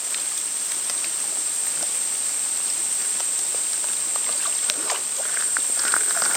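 Insects droning steadily at one high pitch, with scattered light ticks over it.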